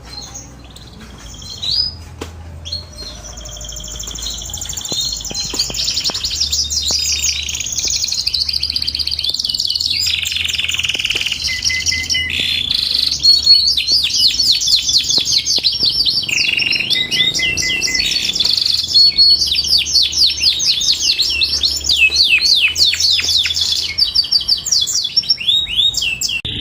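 Domestic canary singing a long, unbroken song of rapid trills and rolls, one phrase changing into the next, high-pitched. It fades up over the first several seconds and then stays loud.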